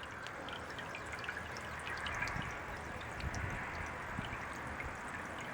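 Water from a small solar fountain pump splashing and trickling steadily into a birdbath bowl, with scattered droplet ticks.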